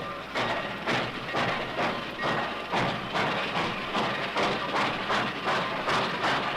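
Steam locomotive chuffing, the beats coming faster and faster as it gathers speed.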